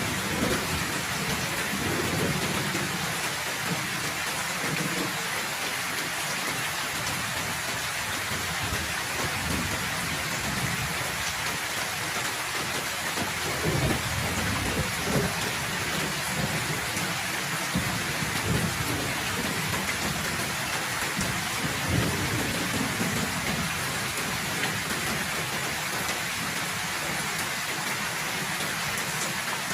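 Heavy rain pouring steadily, with low rolls of thunder swelling and fading several times underneath.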